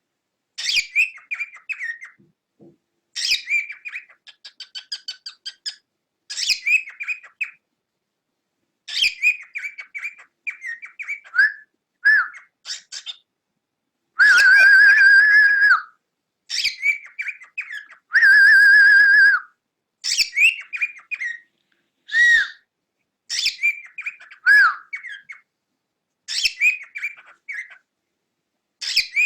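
Cockatiel chirping and warbling in short bursts, with two long held whistles about halfway through.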